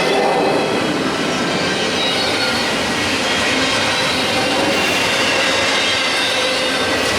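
A train running past on steel rails: a steady, loud rolling noise of wheels on track with faint high ringing tones from the wheels.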